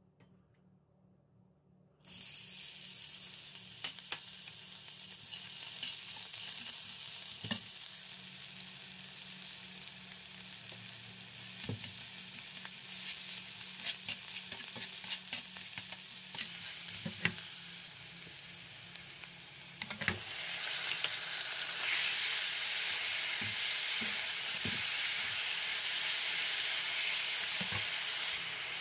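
Chopped garlic and onion sizzling in hot oil in a skillet. The sizzle starts suddenly about two seconds in, with scattered scrapes and taps from a metal spatula stirring. Near the end the sizzle grows louder as raw chicken pieces fry in the pan.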